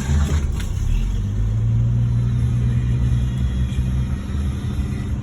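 1968 Ford Mustang engine catching and running with a loud, steady low rumble, easing slightly about four seconds in. It runs a little rough, which the owner puts down to a problem getting fuel through the fuel filter.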